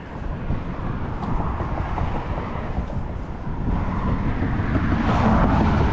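Traffic passing on a bridge: a low, steady rumble that grows louder about four seconds in, as a vehicle passes.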